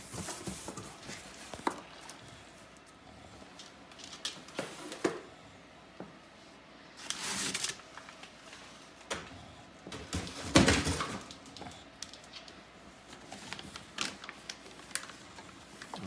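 Cardboard box and packaging being handled and unpacked: scattered knocks and clicks, a rustle about seven seconds in, and a loud thump about ten seconds in.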